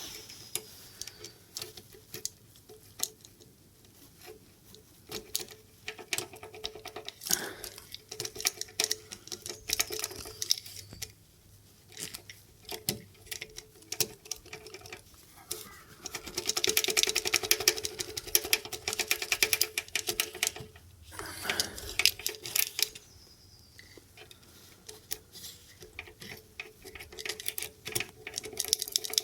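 Irregular metallic clicking, tapping and scraping of a key being jiggled and pushed against the keyway of a Roadlok motorcycle lock, with stretches of rapid rattling; the key will not go into the lock.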